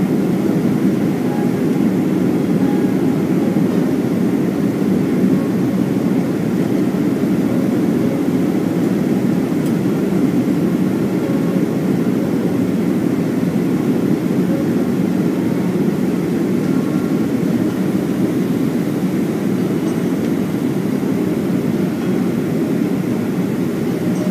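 Steady cabin roar inside a Boeing 737-400 descending towards landing: airflow over the fuselage and the drone of its CFM56-3 turbofan engines.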